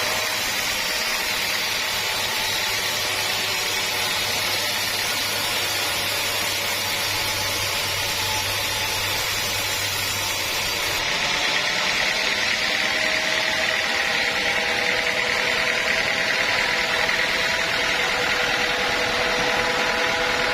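Sawmill saw running steadily with a constant high whine over a mechanical noise; the sound changes abruptly about eleven seconds in, losing some of its deep hum.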